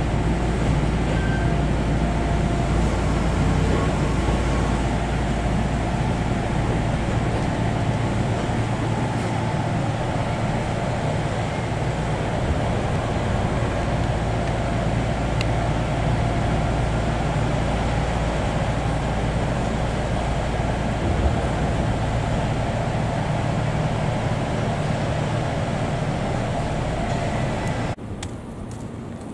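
Steady rumble and hum inside a passenger train's cabin as it runs slowly alongside a station platform. The deepest rumble eases off after about nine seconds. Near the end it cuts to a much quieter outdoor ambience.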